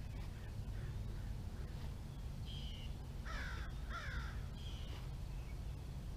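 Two loud bird calls, each falling in pitch, a little past halfway and under a second apart, with a few short high bird notes before and after them, over a steady low background noise.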